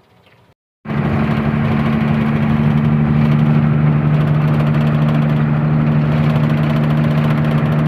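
Truck engine running steadily at constant speed: a loud, even drone with a strong low hum that starts abruptly about a second in, after a short silence.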